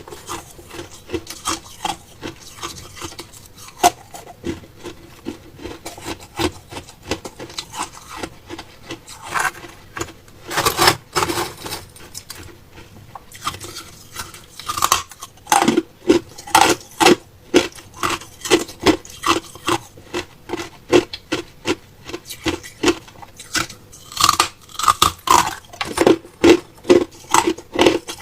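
Hard ice being chewed and crunched between the teeth, close to the microphone. Sharp crunches come unevenly at first, then settle partway through into a steady chewing rhythm of about two crunches a second.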